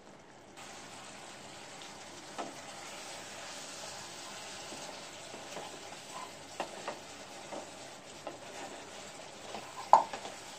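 Mutton curry sizzling as it fries down in a pan and is stirred with a wooden spatula, the added water cooking off into the masala (bhuna). Scattered knocks of the spatula against the pan, the loudest near the end.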